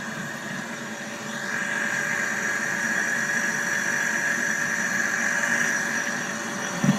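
Three-door commercial glass-door fridge running just after switch-on, very quiet: a steady mechanical hum with a higher whine that swells about a second in and then holds.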